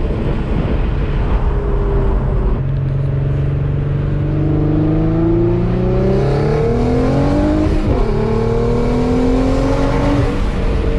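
Twin-turbocharged Infiniti G35 coupe's 3.5-litre VQ35DE V6, with Motordyne exhaust, heard from inside the cabin pulling under acceleration. The engine note rises steadily, drops sharply at a gear change about eight seconds in, then climbs again.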